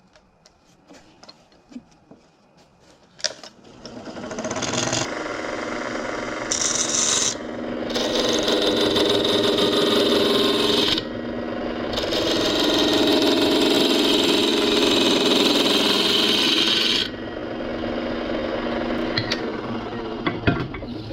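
A turning tool cutting and scraping into a spinning piece of loblolly pine fatwood on a wood lathe. After a few light clicks it starts about four seconds in, changes in strength a few times as the cut goes on, and stops just before the end.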